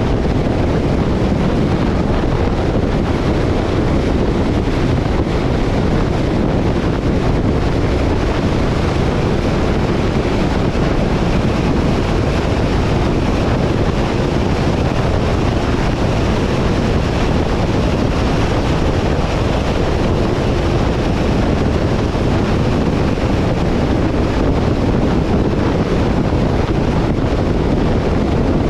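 Steady rushing noise, heaviest in the low end and unchanging throughout: wind buffeting the microphone over a vehicle's low rumble.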